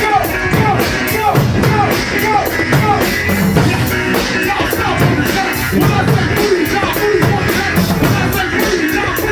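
A live band playing a loud instrumental groove with a steady, driving drum beat and a short falling melodic figure repeated over and over.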